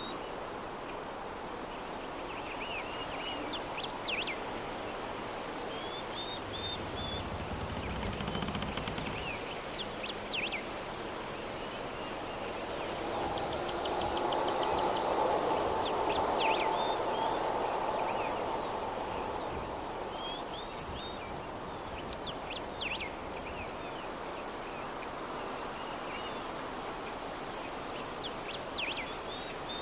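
Soft steady breeze with small birds chirping in short, repeated calls every few seconds. A louder swell rises and fades in the middle.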